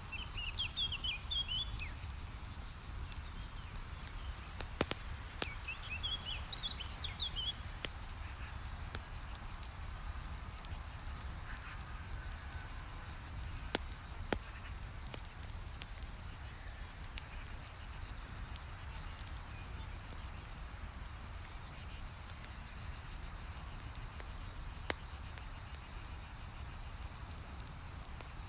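Campfire crackling over a steady low hiss, with occasional sharp pops. A small bird gives two short chirping phrases in the first several seconds, and insects buzz faintly in the background.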